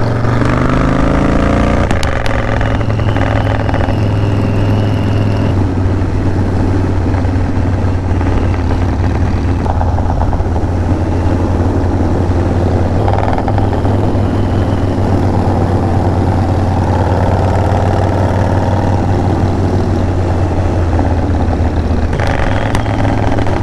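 Motorcycle engine running under way: its pitch rises over the first couple of seconds as it accelerates, then settles into a steady low drone.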